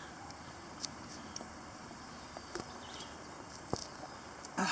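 Footsteps on a dry forest trail: a few light, scattered crunches and clicks over a faint steady outdoor hiss, a little louder near the end.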